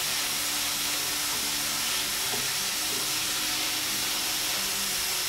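Diced onions, carrot and bell peppers sizzling steadily in hot oil in a stainless steel pan, being stirred with a wooden spatula.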